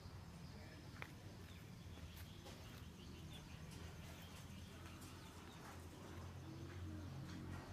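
Quiet rural ambience: faint, scattered bird chirps over a low steady rumble, with one sharp click about a second in.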